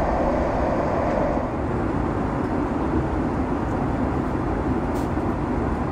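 Steady rumble of a Boeing 767-300ER's engines and airframe heard from inside the passenger cabin, with no let-up.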